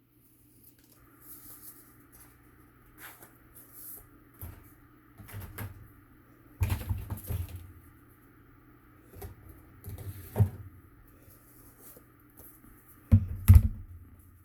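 Craft materials being handled on a tabletop: scattered taps, rustles and knocks, with louder clusters of thumps around the middle and again near the end. A faint steady high hum runs under it from about a second in.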